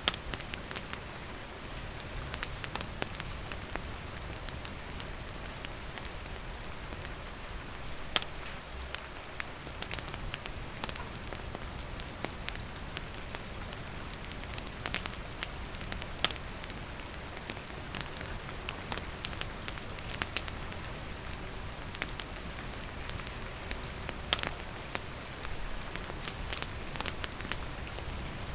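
Steady rain falling on surfaces, with a wood campfire crackling through it in scattered sharp pops and snaps.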